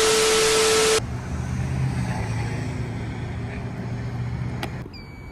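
A loud burst of static hiss with a steady tone under it cuts off abruptly about a second in. A low, steady car-engine rumble follows, ending with a click near the end.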